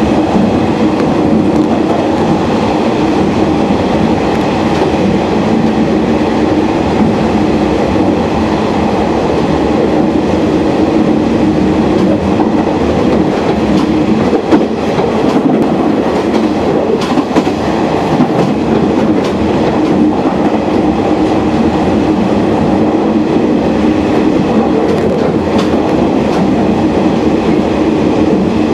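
Uetsu Main Line local train running steadily at speed, heard from inside the passenger car: a constant rumble of wheels on rail with clickety-clack over the rail joints.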